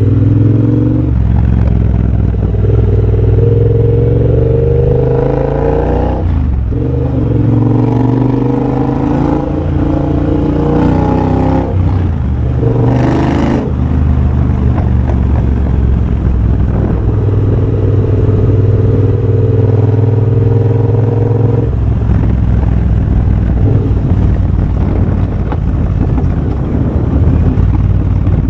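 2023 Triumph Bobber's 1200 cc parallel-twin engine running through a de-catted X-pipe and Motone Shorty exhaust, ridden on the road. In the first dozen seconds it pulls up through the gears, its note rising with short breaks at each shift. It then holds a steady cruise and eases off near the end.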